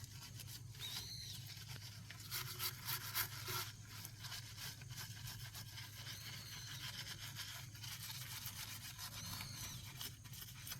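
Car wheel being scrubbed by hand to clear rust and brake-dust grime loosened by iron remover: a run of quick, rough rubbing strokes, with a low steady hum underneath.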